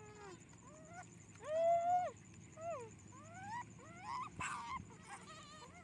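Pet monkey giving a string of short whining calls that rise and fall in pitch, the loudest about a second and a half in. A brief scratchy noise comes just past the four-second mark.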